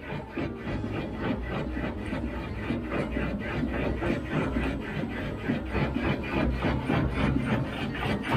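Line-boring bar cutting steel as it slowly bores out the worn, ovalled spring-hanger pin bore of a Scania truck, a steady scraping chatter that pulses about three times a second.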